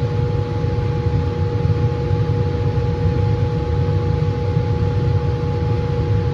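Laminar flow hood's blower fan running steadily: a low roar with a constant hum on top.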